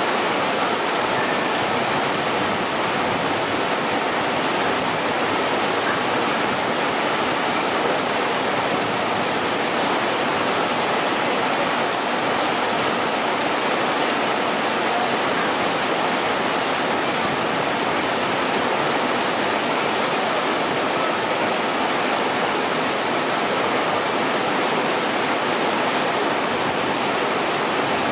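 Heavy downpour: a steady, even rush of rain that does not let up.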